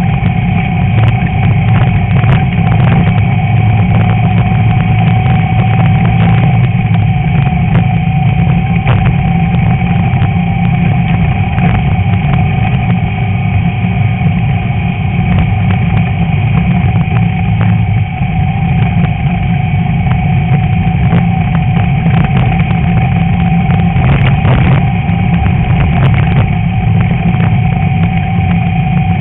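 Air-cooled VW Beetle flat-four engine running steadily under load, with frequent short knocks and rattles of the car over rough ground.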